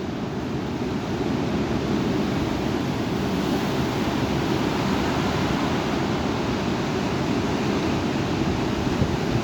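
Strong thunderstorm wind blowing steadily, a dense rushing noise with no breaks or separate events.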